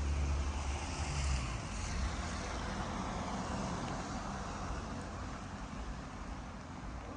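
A car passing on a rain-wet road. A low engine rumble drops away about a second and a half in, while the hiss of tyres on the wet surface swells and then slowly dies away.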